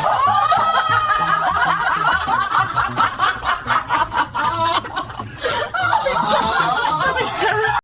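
Several people laughing and chuckling at once, a dense overlapping mass of laughter that cuts off abruptly at the end.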